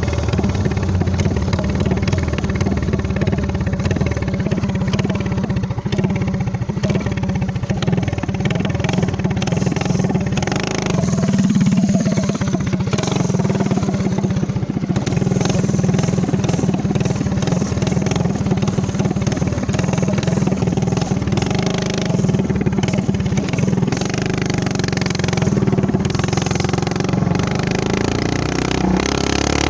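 Motovox minibike's Predator 212 single-cylinder four-stroke engine, fitted with a GPS trumpet exhaust and a VM22 carburettor, running steadily under way, with a brief swell in the engine note about eleven seconds in.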